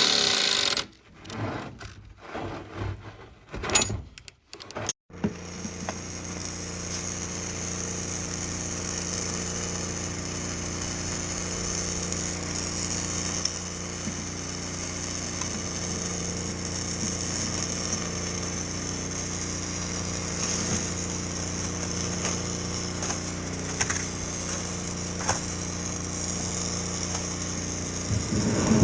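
A few short knocks and clatter, then about five seconds in an electric drill starts and runs steadily, boring a hole that is to be tapped.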